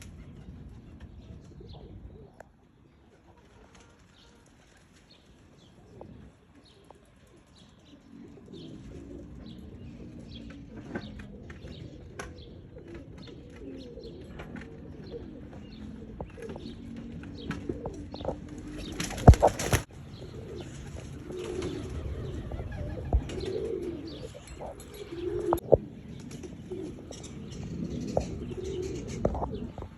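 Tippler pigeons cooing, with wing flaps and small scuffs and clicks. The cooing starts after a quiet stretch early on, and there is one loud, sudden clatter about two-thirds through.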